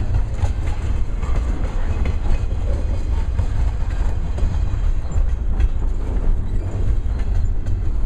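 Double-stack intermodal container train's well cars rolling past: a steady rumble of steel wheels on rail with scattered clicks as the wheels pass over rail joints.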